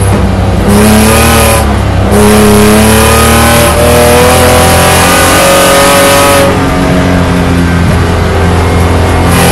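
Engine of a BMW E9x race car, heard from inside the cabin, accelerating with the revs climbing. There is a break for a shift about two seconds in. From about six and a half seconds in it eases off the throttle, then picks up again near the end.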